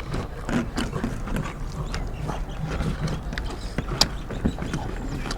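Eating sounds: chewing and lip-smacking on rice and curry, a dense run of small wet clicks and ticks, with one sharper click about four seconds in.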